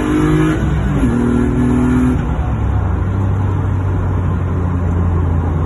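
BMW M52B28 2.8-litre straight-six pulling under acceleration, its note climbing; about a second in a gear change drops the pitch and it pulls again. About two seconds in the revving stops and the engine settles into a low steady drone.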